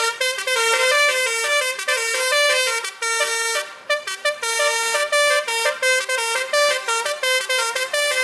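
Truck basuri (telolet) multi-horn playing a tune: a fast run of short horn notes stepping up and down in pitch, with a brief break about four seconds in.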